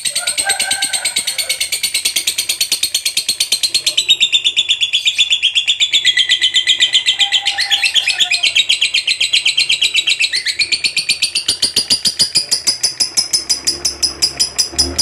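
Lovebird singing a long, unbroken ngekek: a rapid, even run of shrill chirps, about ten a second, held without a break. It is the sustained chattering trill that marks a lovebird in full song form (gacor).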